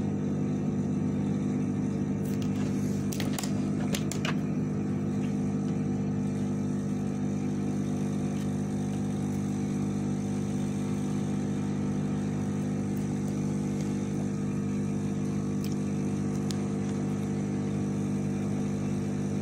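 A small electric motor humming steadily, with a cluster of sharp clicks about three to four seconds in and two more later on.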